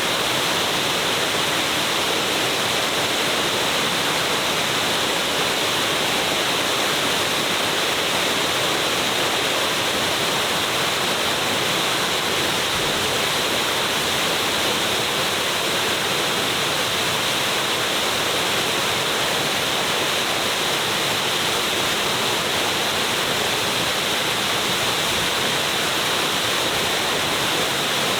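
A large waterfall crashing close by, a steady, unbroken rush of falling water.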